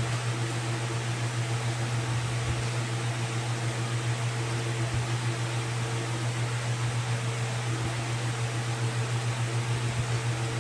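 Steady mechanical hum: a strong low drone with a fast, even flutter in loudness and a hiss of air over it.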